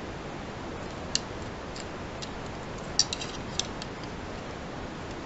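Sharp plastic clicks and snaps from a Transformers Titans Return Misfire action figure as its weapon is pulled from the hands and handled. There are about half a dozen separate clicks with a quick cluster about three seconds in, over a steady low hiss.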